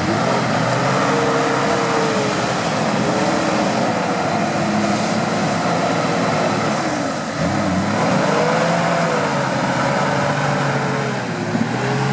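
Off-road 4x4 vehicle's engine revving up and down again and again, with a brief drop about seven seconds in.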